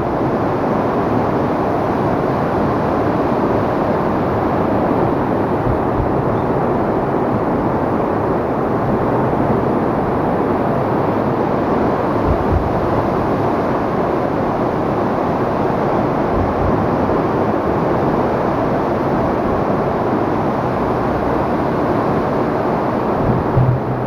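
Flooded Tama River rushing past in spate: a loud, steady roar of fast-moving floodwater, with a few brief low thumps.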